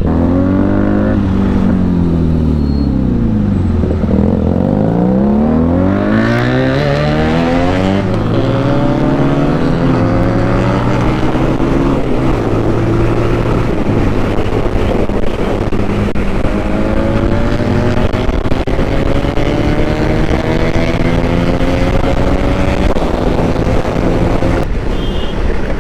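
Benelli motorcycle engine on the move: the engine note drops for a few seconds as it slows, then climbs again as it accelerates, holds steady, and rises through a long pull in the second half.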